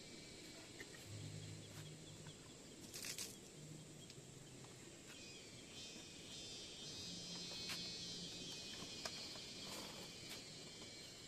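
Faint outdoor country ambience: insects keep up a steady high drone, a faint low hum comes and goes, and there are scattered clicks and a short rustle about three seconds in.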